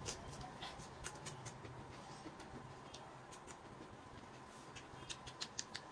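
Faint eating sounds: noodles being chewed, with small wet mouth clicks and smacks, more of them near the end.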